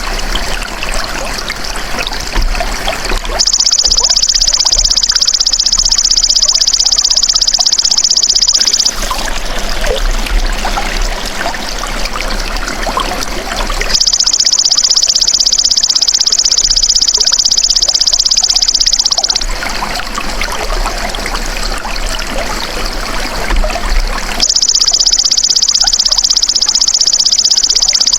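Belalang emas (golden grasshopper) insect buzzing in three long, high bouts of about five seconds each, with pauses between, over continuous trickling water.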